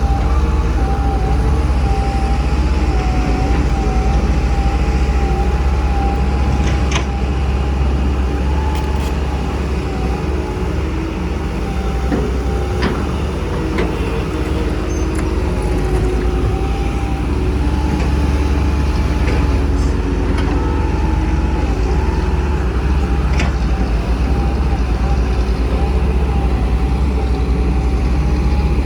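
Heavy diesel excavator and dump truck engines running steadily with a deep rumble. Over it runs a wavering high whine, broken by a few sharp metallic knocks.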